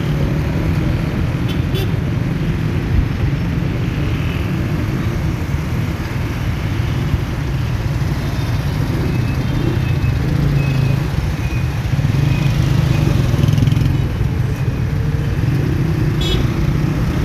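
Steady low rumble of a vehicle engine running, with road traffic noise.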